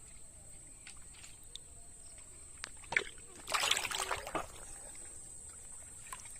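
Shallow water splashed and sloshed by hand for about a second, a little past halfway, with a few small drips and knocks around it, over a steady high-pitched whine.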